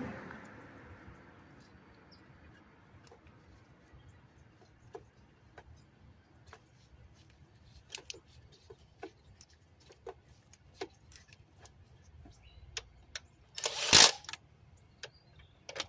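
Scattered light clicks and taps of tools and engine parts being handled while the fuel injectors are refitted, with one short, loud rushing noise about fourteen seconds in.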